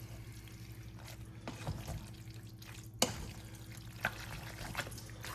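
Spoon stirring pasta and taco meat in a large pan: soft wet squishing and scraping, with one sharp clink of the utensil on the pan about three seconds in, over a steady low hum.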